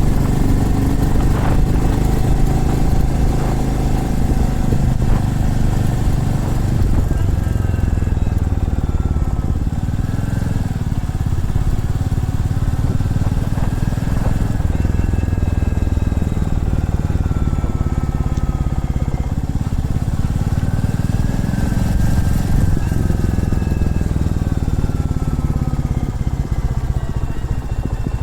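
Single-cylinder motorcycle engine running on the move, its pitch rising and falling gently with the throttle, over a steady low rumble.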